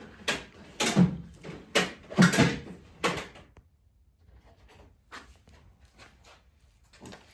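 Several sharp knocks and clunks in quick succession, about six over three seconds, then a few lighter clicks: tools and metal engine parts being handled on the bench.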